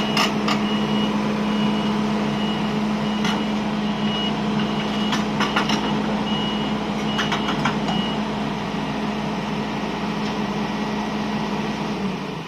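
Volvo crawler excavator's diesel engine running steadily, with its travel alarm beeping in an even on-off pattern until about two-thirds of the way through, and a few sharp metallic clanks from the machine. The engine note drops away near the end.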